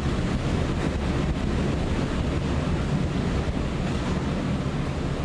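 Category 4 hurricane winds, a loud, unbroken rush of wind that buffets the microphone.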